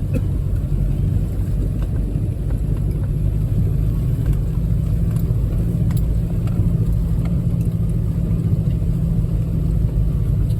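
Off-road 4x4 driving along a trail, a steady low engine and drivetrain rumble heard from inside the vehicle.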